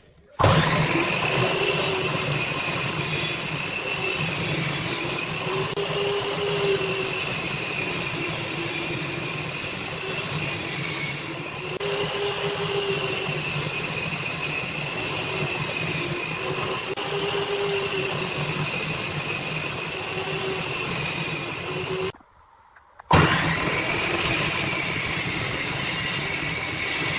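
A steady mechanical whine of an electric woodworking power tool running, its pitch wavering slightly, with a short break near the end.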